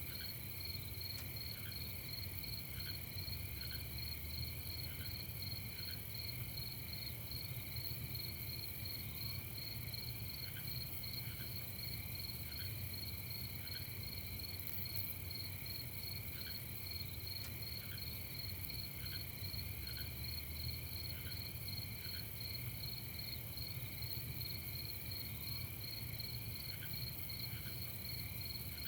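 Night chorus of crickets chirping in a steady, rapidly pulsing high trill, with a few short lower chirps scattered through it over a steady low rumble.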